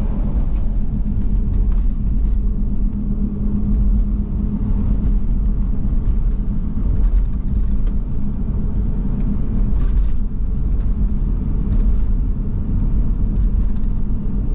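Steady low rumble of a motor vehicle on the move, with a constant low hum and a few faint ticks over it.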